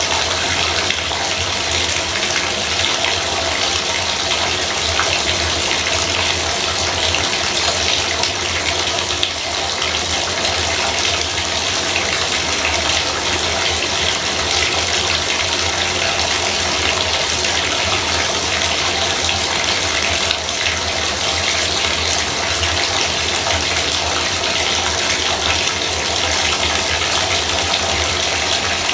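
Bathtub faucet running steadily, water splashing into the tub as a constant loud rush with no pauses.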